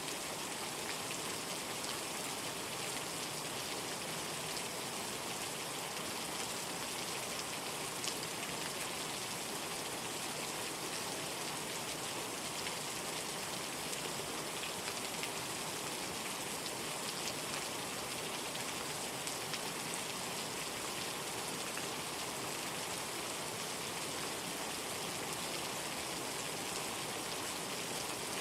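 Steady rain: an even hiss of rainfall with a few sharper single drops standing out now and then.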